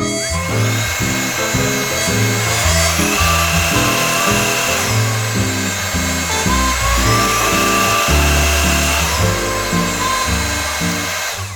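Background music with a stepping bass line, over the steady motor whine and airflow noise of a Tefal X-Force 8.60 cordless stick vacuum cleaner running. The vacuum noise cuts off at the end.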